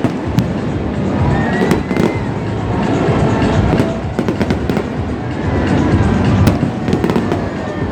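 Fireworks going off continuously: many sharp cracks and pops over a dense, steady rumble. Music plays underneath.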